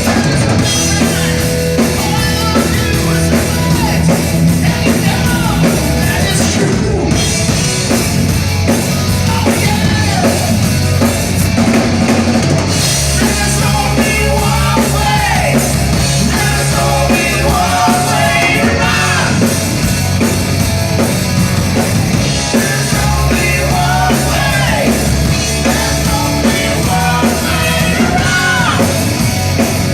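Rock band playing loud, drum kit and bass holding a steady beat, with a lead line bending up and down in pitch over it for much of the passage.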